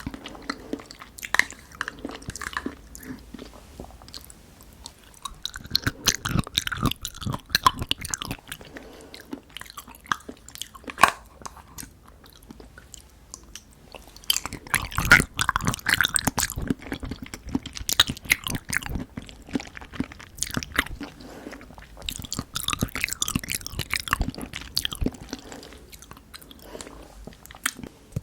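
Close-miked mouth sounds of someone eating soft pudding: wet chewing and smacking with many sharp clicks, in uneven bursts with short lulls.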